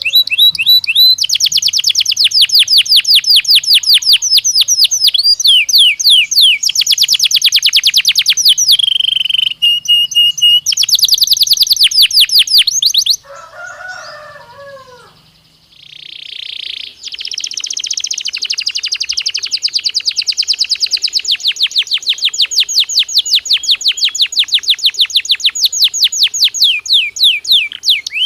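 Belgian canary singing in fast trills of rapidly repeated high notes, switching from one rolling phrase to the next. About halfway through the song pauses for roughly three seconds, with a few softer, lower falling notes, then a long unbroken trill starts up again.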